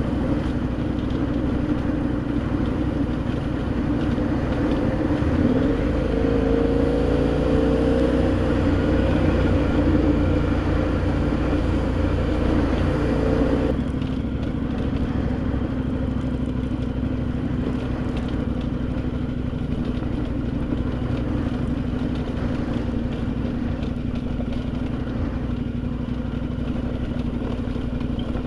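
KTM adventure motorcycle's V-twin engine running under way: the revs climb steadily for several seconds, then drop suddenly about halfway through, and it runs on at steady revs.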